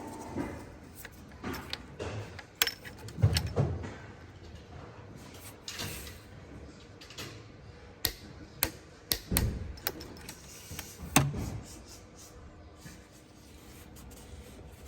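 Irregular clicks, clinks and knocks of hand tools and metal engine parts being handled during reassembly, with a few sharper knocks about 3 s, 9 s and 11 s in.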